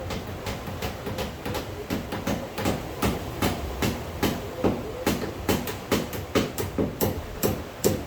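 A rapid series of sharp knocks, about three a second, growing louder and then stopping abruptly, over a steady hiss.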